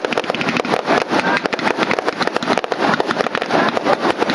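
Fireworks crackling overhead: a dense, rapid run of sharp pops and snaps, many each second.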